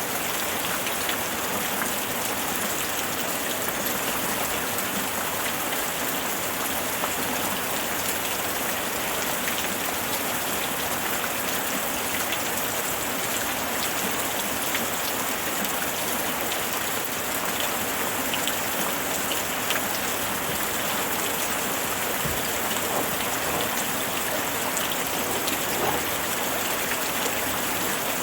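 Steady rainfall pattering on surfaces, with scattered individual drops ticking through the even hiss of the rain.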